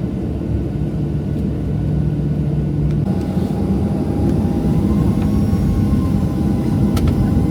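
Steady cabin rumble of a Boeing 737-700's jet engines heard from a passenger seat, with a steady hum that changes pitch about three seconds in and a single sharp click near the end.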